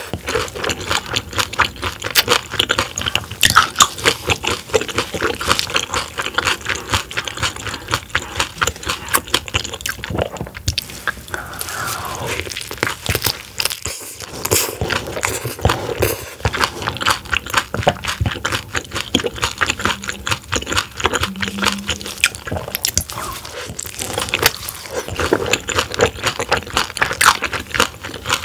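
Close-miked chewing and crunching of soft-shell crab eaten shell and all: a dense run of crisp crunches with a few short pauses.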